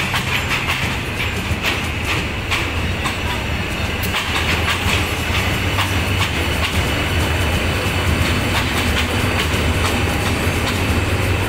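A long train of passenger coaches rolling slowly past, its wheels clicking over the rail joints, with a thin high whine. A low diesel-locomotive hum grows louder from about four seconds in as the locomotive draws near.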